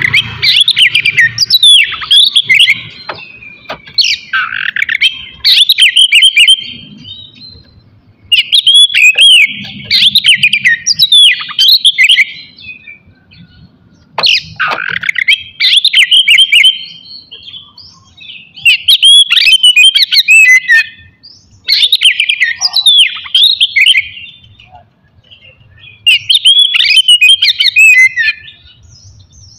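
Oriental magpie-robin (kacer) singing loudly in repeated bouts of rapid, varied whistled and trilled notes, about seven phrases of roughly two seconds each with short pauses between them.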